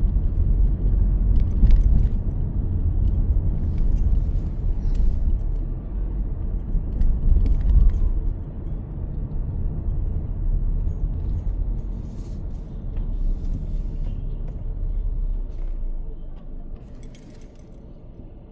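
Low rumble of a car in motion heard from inside the cabin, with scattered small clicks and jingles like keys swinging. The rumble grows quieter in the last few seconds.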